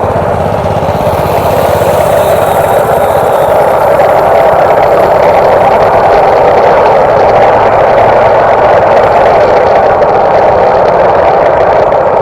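Massimo/Baja Warrior MB200 mini bike's small single-cylinder engine running steadily, loud and even throughout.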